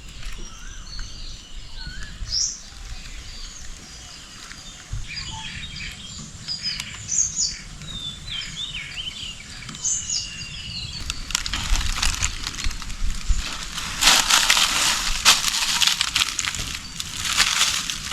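Jungle birds chirping and calling with many short, quick notes. About eleven seconds in, a louder rustling, crunching noise takes over, strongest near the end.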